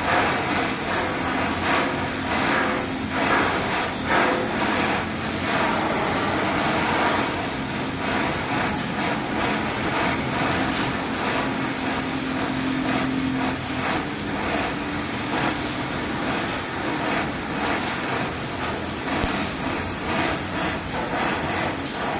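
Electric arc welding on a sheet-metal kitchen exhaust duct elbow: the arc crackles and sputters continuously.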